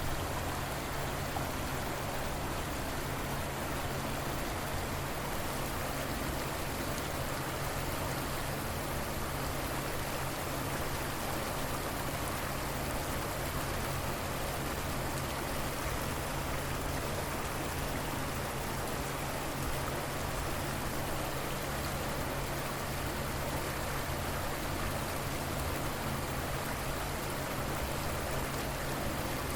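River water running steadily, an even rushing wash with no breaks.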